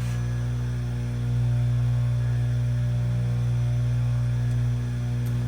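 Oregon 620-120 chain grinder's electric motor running with a steady hum.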